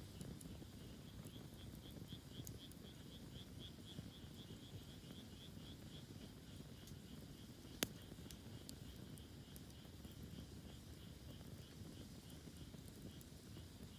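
A cricket chirping steadily, about four to five chirps a second, over a faint low rumble. There is a single sharp crack about eight seconds in.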